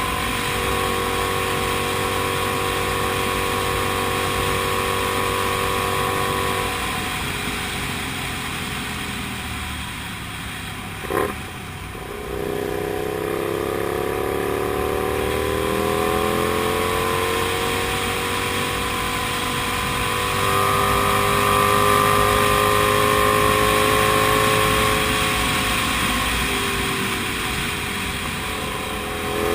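Comet GTR250's 250 cc V-twin engine running under way, its pitch holding steady, falling off, then rising again as it accelerates and easing near the end. One short sharp sound about eleven seconds in.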